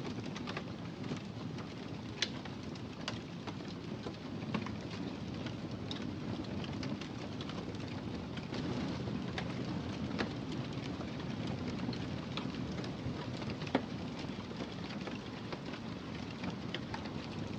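Wood fire burning in a fireplace: a steady low rush of flames with irregular crackles and snaps, a few sharper pops standing out.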